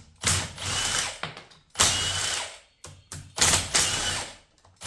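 Handheld power tool, a cordless ratchet or driver, running in three short bursts of about a second each with brief clicks between, backing out bolts.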